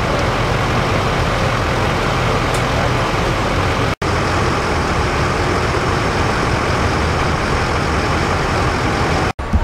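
Heavy diesel engine of fire apparatus running steadily, a loud even rumble with hiss. The sound cuts out briefly twice, about four seconds in and near the end.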